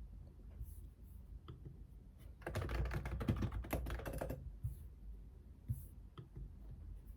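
Typing on a computer keyboard: a few scattered keystrokes, then a fast run of keys for about two seconds about a third of the way in, then scattered keystrokes again.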